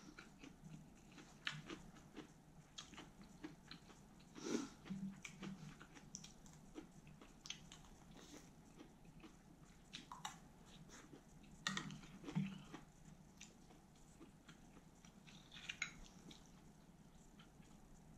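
Faint, close-up chewing of a lettuce wrap (ssam) filled with thin-sliced grilled pork belly and kimchi: irregular wet mouth clicks and soft crunches, a few of them louder.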